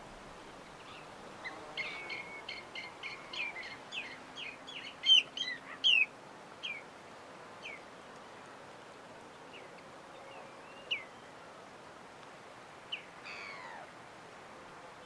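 Birds chirping: a quick run of short, high chirps in the first six seconds, then scattered single calls and one downward-sliding call near the end, over a steady background hiss.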